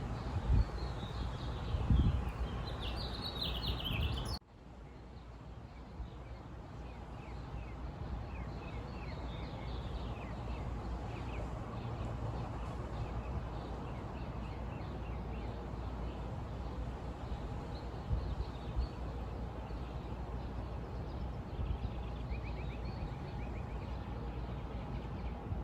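Outdoor nature ambience: birds chirping over a steady low background noise. About four seconds in, the sound cuts abruptly to a quieter recording in which fainter bird chirps go on.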